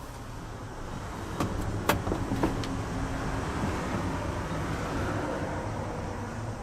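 A few sharp clicks and knocks in quick succession, over a steady low mechanical hum.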